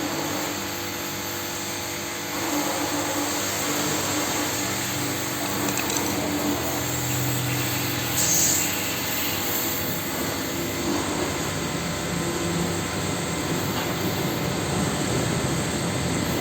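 Gas blowtorch flame running with a steady hiss, heating lead to rebuild a battery terminal post.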